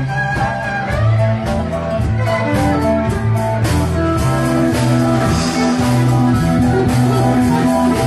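Live band playing an instrumental passage: guitar over a low bass line with a steady beat.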